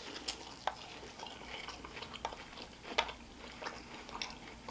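A person chewing a mouthful of grilled Mexican street corn (elote), close to the microphone: soft, irregular mouth clicks and small crunches, one a little louder about three seconds in.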